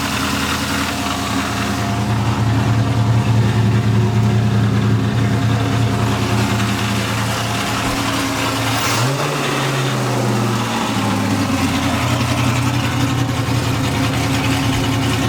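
1999 Chevrolet Corvette race car's ported and tuned LS6 V8 with headers idling, with one brief rev about nine seconds in that rises in pitch and settles back to idle about two seconds later.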